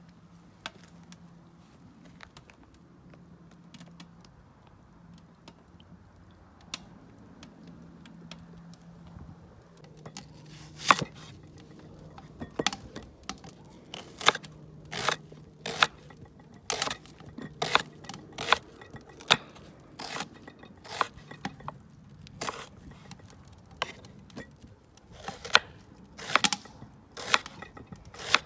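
Food being cut with a knife: a run of sharp, irregular cutting and scraping strokes, roughly one every half second to a second, beginning about ten seconds in over a low steady hum.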